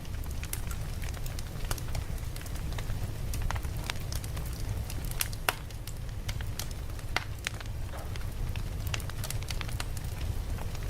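Campfire crackling, with irregular sharp pops over a steady low rumble of the flames.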